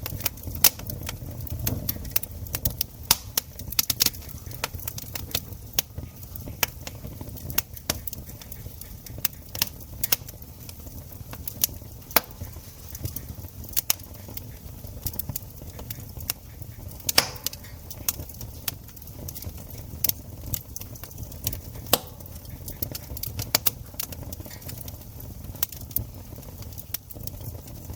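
Wood campfire crackling: irregular sharp snaps and pops over a steady low rumble, with one louder snap about halfway through.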